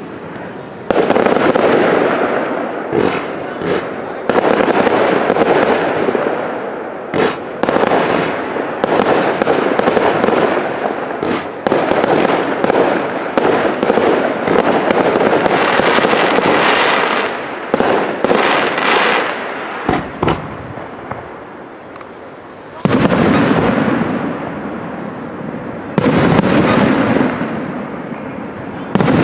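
Professional aerial fireworks display: shells go off in sudden loud bursts, about six times, and each burst is followed by several seconds of dense noise from the breaking stars. The sound thins briefly near the two-thirds mark, then two more bursts come.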